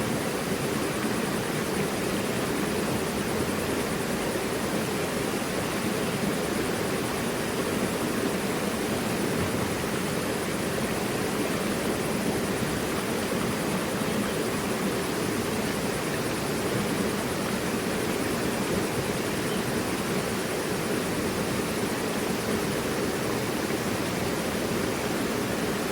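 Mountain river rushing over rocks: a steady, even flow with no breaks.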